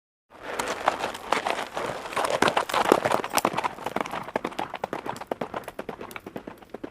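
Hooves of running animals clattering: a dense run of quick knocks that starts abruptly after silence and thins out near the end.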